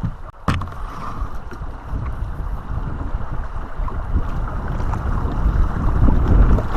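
Wind buffeting the microphone over the rush of moving water around a kayak, growing stronger toward the end, with a single knock about half a second in.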